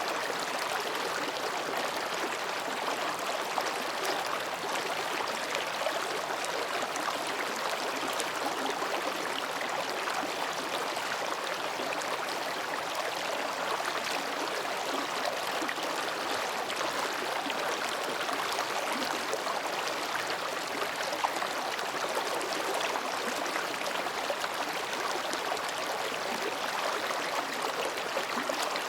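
Mountain stream babbling over and between rocks, a steady, even rush of water.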